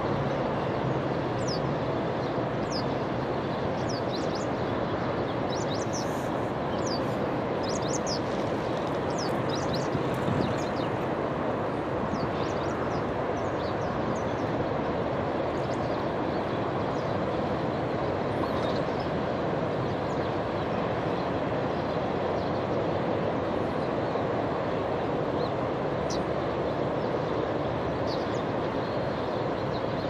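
Short, sharp, high wild-bird calls over a steady rushing outdoor background. The calls come in a busy cluster over the first dozen seconds, then a few more near the end.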